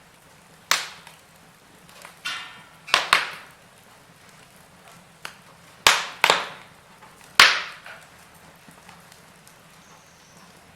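Wood fire in a fireplace crackling: about seven sharp pops of burning wood, a second or two apart and some in quick pairs, over a faint steady background.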